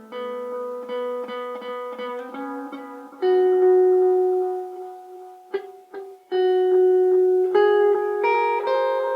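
Electric guitar played through an analog delay pedal (Noise Pollution Blue Dragonfly), picked notes ringing out and changing pitch. Louder notes are struck about three seconds in and again after a few short muted strums.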